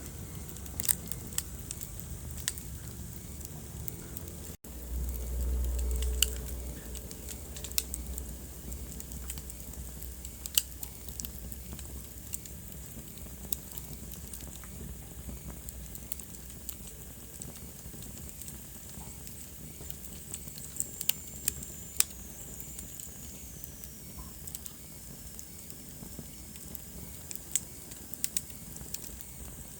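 Wood fire crackling in a fireplace: irregular sharp pops and snaps over a steady soft hiss. After a brief cut-out about four seconds in, a low rumble swells for a couple of seconds. Later, a thin whistle slides downward for a few seconds.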